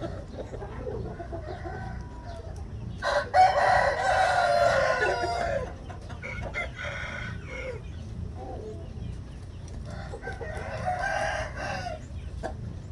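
Rooster crowing twice: a loud crow lasting about two and a half seconds a few seconds in, then a fainter crow near the end, with hens clucking in between.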